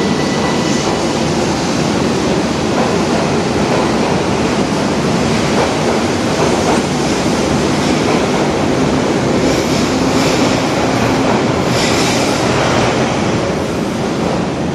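Hanshin 5000 series electric commuter train pulling out of an underground station and running past the platform: a loud, steady rumble of wheels and motors on the rails, echoing off the station walls.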